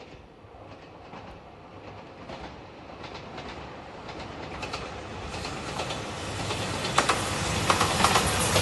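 Passenger train approaching and running past close by, growing steadily louder, its wheels clicking over the rail joints faster and harder as it nears.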